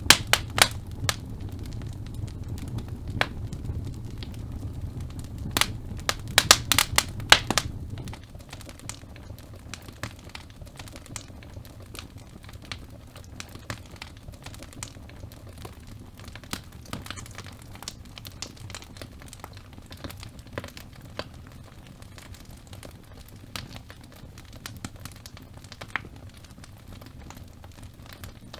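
Logs burning in a fireplace: wood crackling and popping over a low rumble of flame. A cluster of loud pops comes about six to seven seconds in; the rumble drops off soon after, leaving lighter, sparser crackling.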